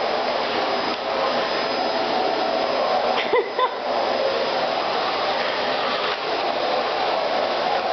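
Vacuum cleaner running steadily as it is passed over a dog's coat. A little over three seconds in, its rush of air briefly changes and two short, high squeaks sound.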